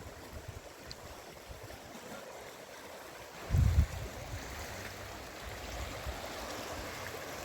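Sea surf washing onto a small, rocky beach, a steady rush of water. A sudden low thump about three and a half seconds in, likely wind buffeting the microphone.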